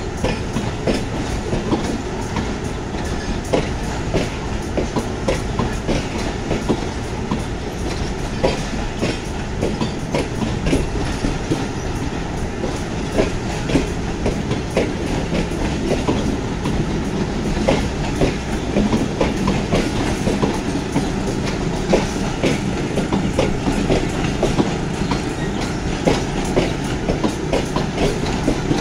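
Pakistan Railways passenger coaches rolling past, their wheels clacking over the rail joints in a steady stream of sharp clicks over a continuous rumble.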